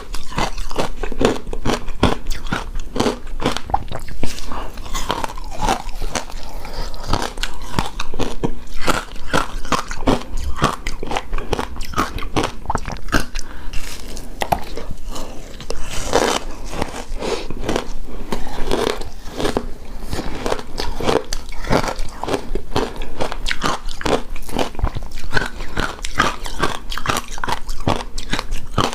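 Close-miked eating of shaved ice: continuous crunching and chewing of icy bites, dense small crackles with no pause.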